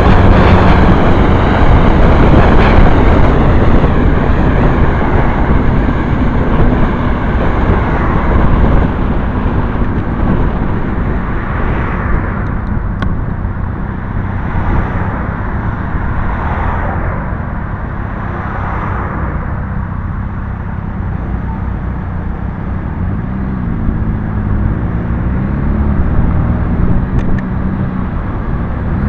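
Motorcycle engine running on the move, with a loud rushing noise over it. The engine note wavers up and down about two-thirds of the way through.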